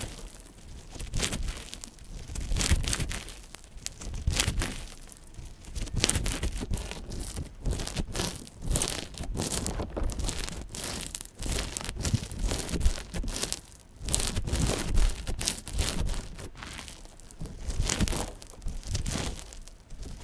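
Slime being squeezed and stretched by hand, giving off irregular clicking and crackling noises that swell and fade every second or two.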